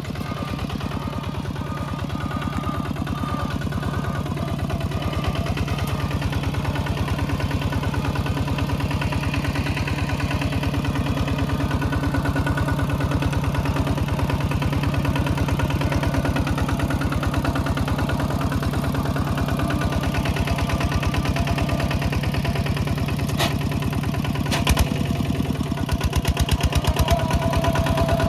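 Small tractor engine running steadily with a rapid, even chugging beat, which grows louder near the end. A couple of sharp knocks sound near the end.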